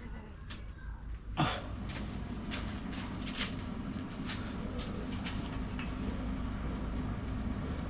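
Welding set switched on with a sharp click about a second and a half in, then running with a steady low hum and scattered clicks, ready for tack welding.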